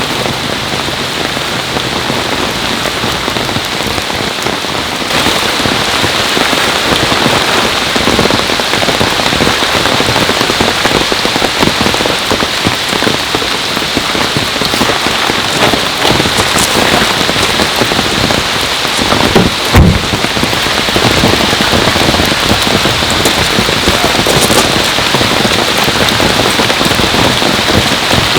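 Heavy rain pouring down in a steady dense hiss, growing heavier about five seconds in. A single dull thump sounds about two-thirds of the way through.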